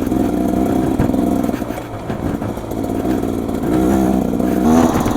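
Beta XTrainer 300 single-cylinder two-stroke dirt bike engine running under the rider; the throttle eases off about two seconds in, then opens again, the engine note rising toward the end.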